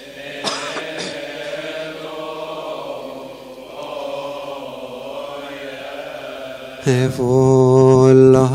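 Coptic liturgical psalm chanted by a male voice in long, slowly wavering melismatic notes. The chanting is softer at first and grows much louder near the end.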